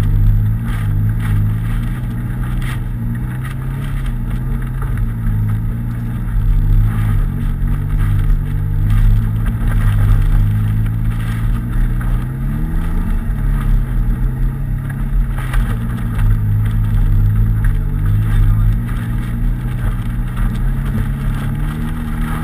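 Nissan 200SX engine running as the car drives over snow, its pitch rising and falling with the throttle, with a brief climb and drop about twelve seconds in.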